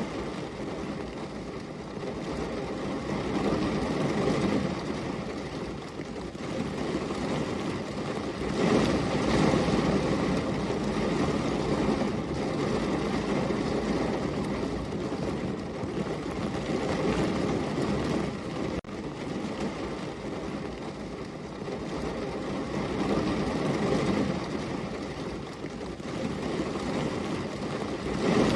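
Rain falling steadily, a dense even hiss that swells and eases every few seconds.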